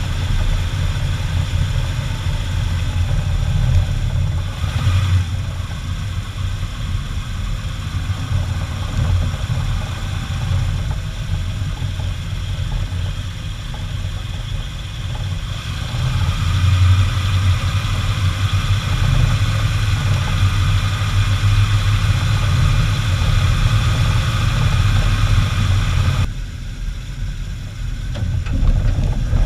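1974 Chevy 3/4-ton pickup running with a steady low rumble as the truck is driven, heard from a camera on the front grille. The sound eases briefly near the end, then picks up again.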